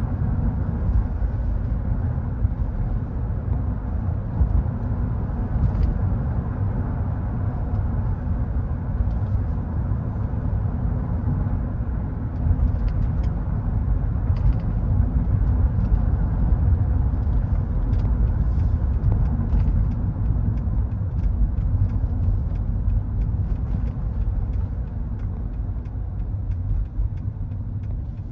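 2000 Mercedes-Benz E430 with its 4.3-litre V8 running, a steady low rumble with a little light ticking over it.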